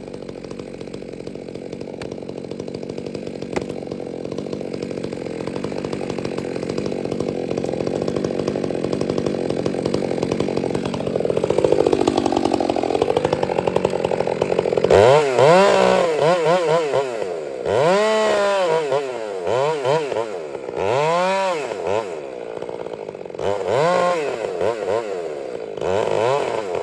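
Chainsaw running at a steady pitch under load, sagging and recovering about twelve seconds in, then revving up and down in repeated swells through the rest.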